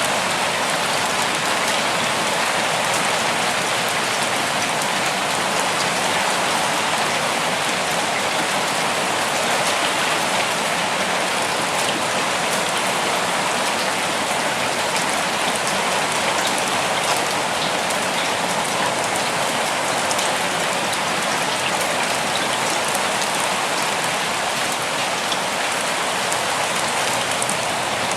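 Steady rain falling and pattering on leaves and surfaces, an even hiss with scattered drop ticks.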